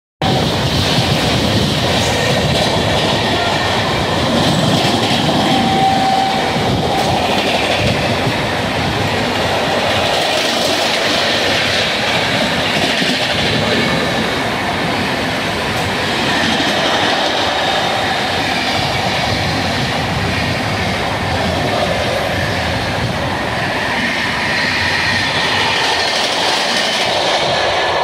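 Steady running noise of two trains side by side on parallel tracks: wheels rumbling and clickety-clacking over the rails as an Indian Railways EMU and the Rajdhani Express's LHB coaches travel at speed. It is heard from aboard the moving EMU, and a brief high tone sounds about six seconds in.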